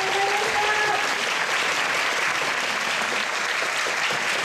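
Audience applauding steadily, many hands clapping in a hall, with the tail of a woman's voice in the first second.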